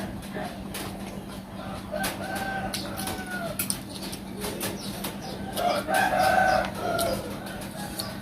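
A rooster crows twice, the second crow about six seconds in and louder, each a drawn-out call that falls away at the end. Frequent short sharp clicks and cracks of eating sound close by.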